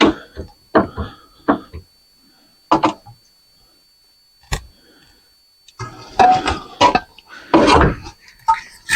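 Metal parts of a ceiling fan clanking and knocking as they are handled and clamped in a vise, in short scattered clusters with the busiest stretch near the end.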